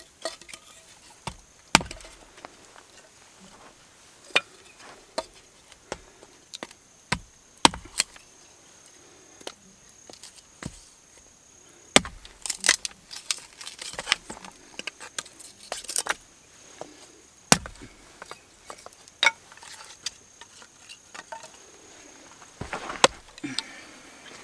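Wood being chopped in irregular sharp knocks and cracks, a few strikes much louder than the rest. A high, steady insect trill sounds faintly behind at times.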